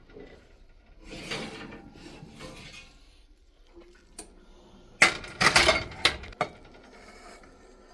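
Hard objects being handled: rustling, then a single click just after four seconds in, and a burst of loud clattering knocks from about five to six seconds in.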